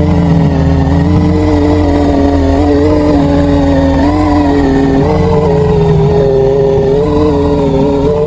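Ceiling fan making a loud, steady mechanical drone: a low hum with a whine above it that wavers slightly in pitch.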